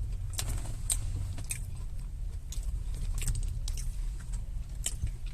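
Scattered sharp clicks and light rustles from food and its containers being handled during eating, over a steady low hum.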